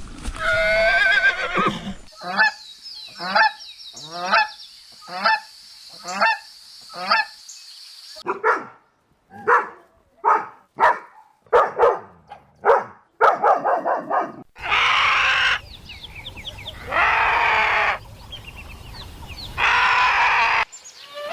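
Geese honking: runs of short, repeated honks, one stretch evenly spaced about a second apart, with a few longer, louder calls later on.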